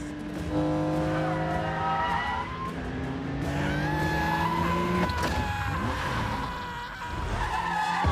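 A sports car engine revving hard, its pitch climbing steadily, then cutting off about five seconds in to tires squealing in long high whines.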